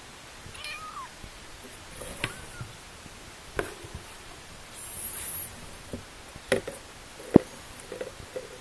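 Newborn kittens giving faint, short high mews, mixed with several sharp clicks and knocks, the loudest about seven seconds in.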